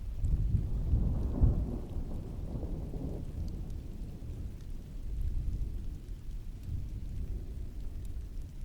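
A roll of distant thunder rumbling low, swelling at the start and loudest about a second and a half in, then fading into a steady rumble, over steady heavy rain with occasional drop ticks.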